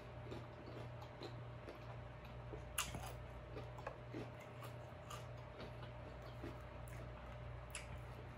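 Close-miked mouth sounds of a person chewing shrimp ceviche: scattered soft, wet clicks and lip smacks, a few sharper than the rest, over a faint steady hum.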